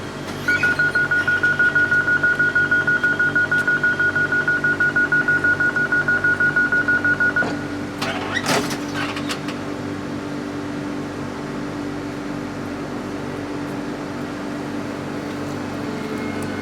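Renfe Cercanías train's door-closing warning: a high beep repeating rapidly, about four times a second, for about seven seconds. About a second after it stops comes a short hiss with clicks as the doors shut, then a steady electric hum as the train moves off.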